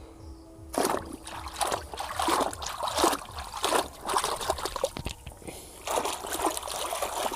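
Water trickling and splashing in uneven spurts as a muddy toy is rinsed and scrubbed by hand, starting about a second in.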